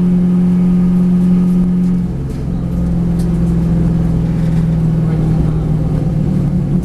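V8 race car engine running at steady, moderate revs, its pitch dropping slightly about two seconds in and then holding steady.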